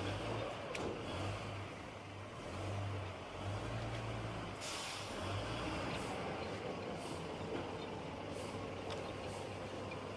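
A large vehicle engine running steadily, with a short burst of hiss about halfway through.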